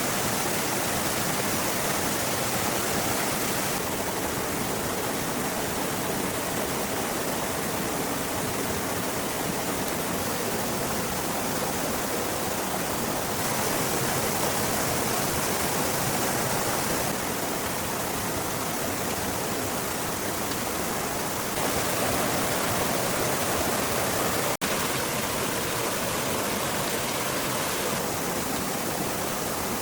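Steady rushing noise with no distinct events. It shifts abruptly in tone several times and drops out for an instant a little after the middle.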